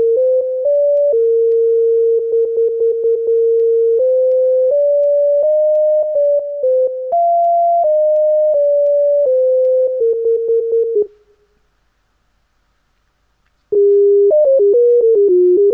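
A melody played in a single pure electronic tone over a phone line, stepping between pitches with bursts of quick repeated staccato notes. It breaks off for about two and a half seconds near the end, then starts again.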